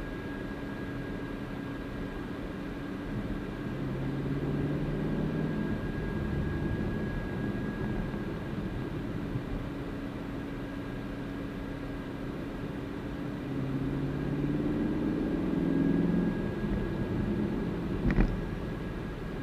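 Chevrolet Camaro driving on the road: steady engine and road noise, with the engine note rising twice as the car accelerates. A single sharp click comes near the end.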